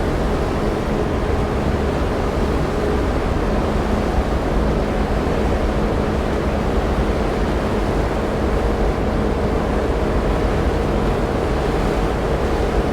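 Car ferry Ritsurin 2 under way: a steady low rumble of its engines with a faint constant hum, mixed with a rushing noise of wind and sea.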